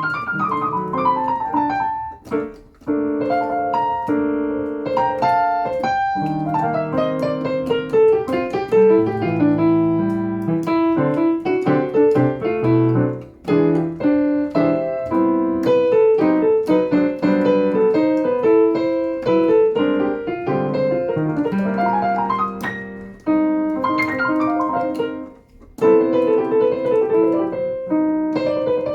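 Solo jazz piano: chords and melodic runs with sustained notes, pausing briefly a few times.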